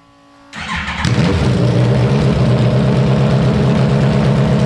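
Motorcycle engine mounted in a car firing up about a second in, then running loud and steady at idle.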